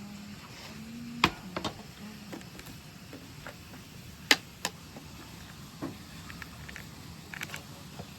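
A handful of sharp clicks and knocks of small hard objects, loudest about a second in and about four seconds in, over a faint steady hum.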